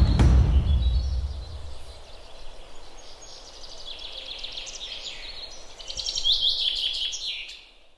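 Birds calling: rapid runs of high chirping notes, growing louder toward the end. A low rumble sounds in the first second or two.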